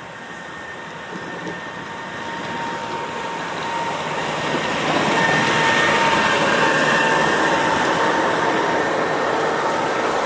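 Snowplow approaching along the street, its noise growing steadily louder over the first half and then holding loud, with a faint steady whine over the rumble.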